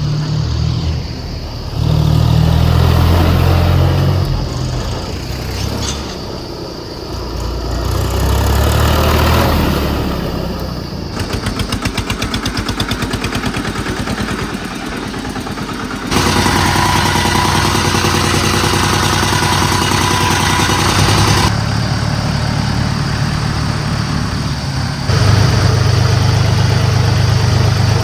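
Diesel tractor engines running hard under load, revving and labouring on a climb, with the sound jumping abruptly in level several times. Near the middle, a few seconds of rapid, even engine clatter.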